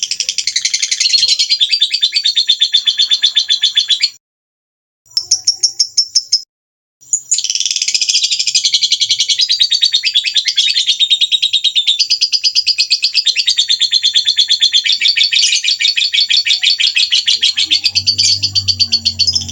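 Songbird giving harsh, rapid 'tembakan' calls, short high notes repeated fast at about five a second as a bird-song training recording. The calls cut out to silence twice, briefly, about four and six and a half seconds in.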